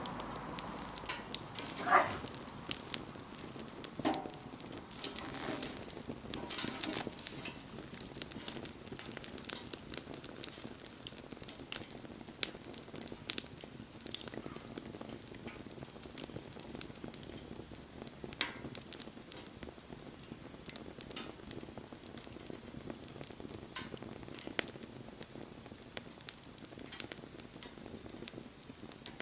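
Wood fire crackling, with scattered sharp pops over a steady faint hiss; the loudest pop comes about two seconds in.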